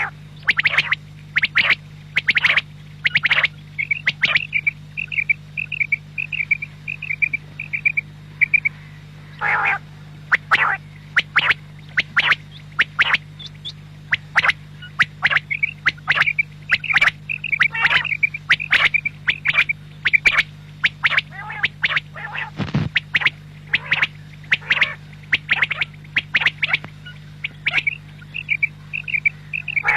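Quail calling over and over: short, sharp calls in quick succession, broken by rapid trilled runs about four seconds in and again near the end, over a steady low hum.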